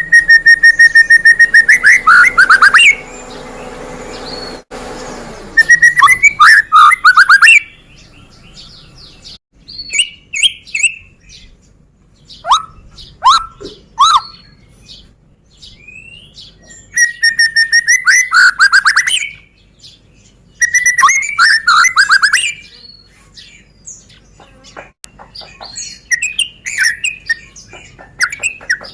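White-rumped shama (Medan murai batu) singing: loud bouts of rapid, fast-repeated trilled notes with short whistled phrases between them, in about seven bursts.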